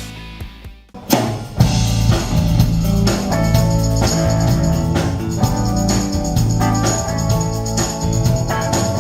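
A rock band rehearsing: the previous music dies away to a short lull, then about a second in the full band comes in with drums, bass and organ or keyboard and keeps playing.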